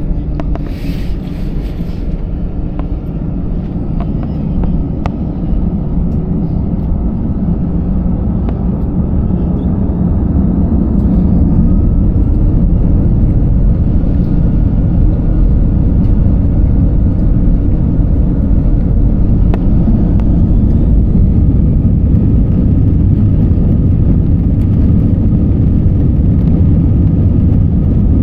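Passenger airplane cabin noise: a steady low rumble of engines and airflow that grows louder over the first dozen seconds, then holds level.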